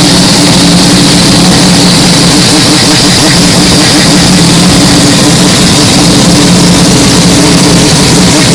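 Mazda 767B's four-rotor rotary engine running at a steady pitch, with no rise or fall in revs; the sound is boosted to the point of distortion.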